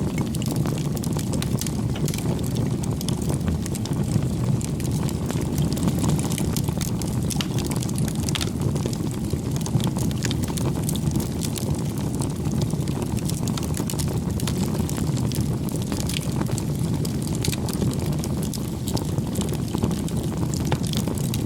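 Wood fire burning: a steady low rush with scattered sharp crackles and pops of the burning wood.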